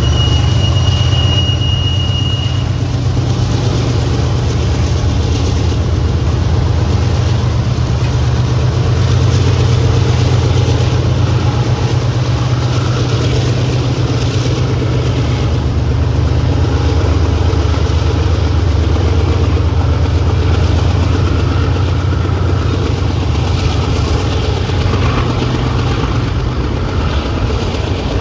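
Freight train passing: the diesel locomotives' engines running with a steady low drone, the cars rolling by behind them. A thin high squeal sounds for the first two seconds or so.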